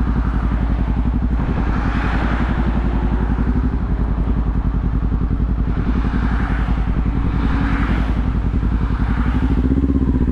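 Kawasaki Z400 parallel-twin engine running at a steady pace while riding, with wind noise on the microphone swelling and fading every couple of seconds. Near the end the engine note changes and gets slightly louder.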